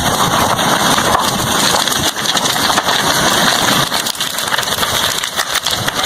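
Lava flow burning through a house: a steady rushing noise full of dense crackles and pops.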